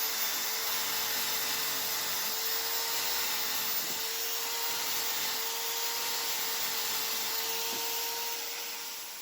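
A small electric tool running at constant speed: a steady hiss with an even whine, fading out near the end.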